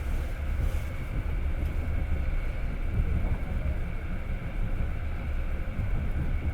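Passenger train running at speed, heard from inside the carriage: a steady low rumble from the wheels and running gear on the rails, with a faint steady whine over it.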